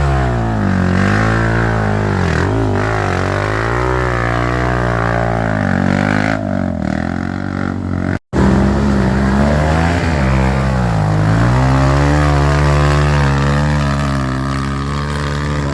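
Trail motorcycle engine revving up and down repeatedly as it labours through mud, with the sound cutting out for a split second about halfway through.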